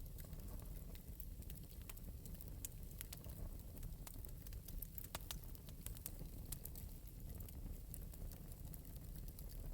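Wood fire burning in an open metal fireplace: a low steady rumble of flames with frequent small, irregular crackles and pops.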